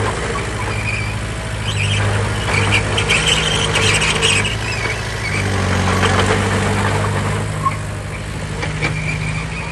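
Heavy diesel earthmoving machinery running steadily, with clattering metal noises over the engine. The engine note shifts about five seconds in.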